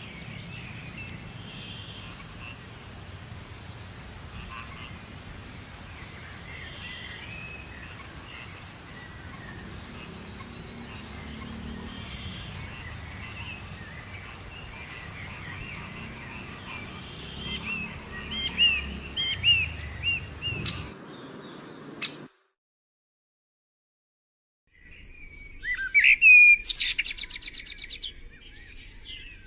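Small birds chirping and singing over a low, steady background noise. About two-thirds of the way through the sound cuts out completely for a couple of seconds, then a louder bird sings a fast run of repeated notes.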